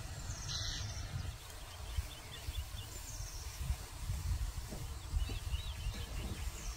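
Small birds chirping in short quick runs over a steady low rumble of outdoor background noise.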